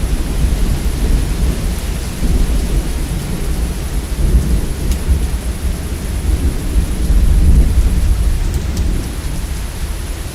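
Rolling thunder rumbling over steady rain. The rumble swells about seven to eight seconds in and eases off near the end.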